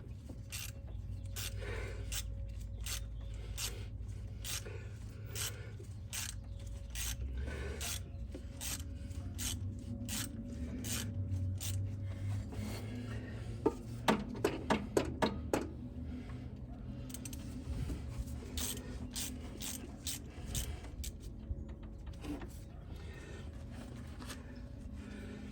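Ratchet wrench clicking through repeated back-strokes while turning out bolts, with a faster, louder run of clicks about halfway through, over a low steady hum.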